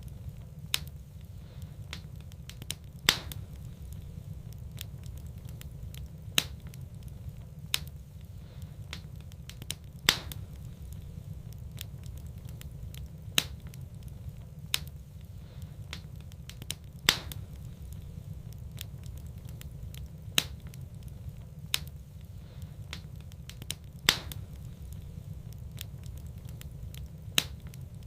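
Wood fire in a fireplace crackling, with sharp pops about every three to four seconds over a steady low rumble.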